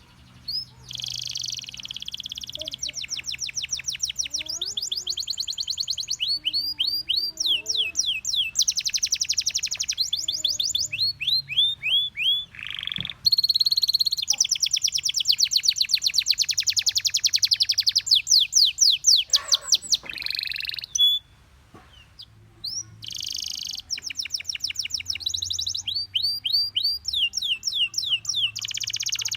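Gloster canary singing a long song of fast trills, runs of rapidly repeated high notes that change speed and pitch from tour to tour, with a brief pause about three-quarters of the way through.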